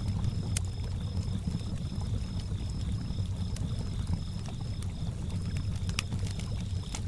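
Campfire crackling with a few sharp pops, over a low wash of lake water lapping, while a cricket chirps in an even rhythm of about three chirps a second.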